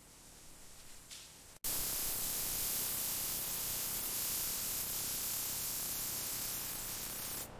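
A loud, steady hiss of rushing air or spray that cuts in abruptly about a second and a half in, holds even for about six seconds, and cuts off just before the end. Before it there is only faint background noise.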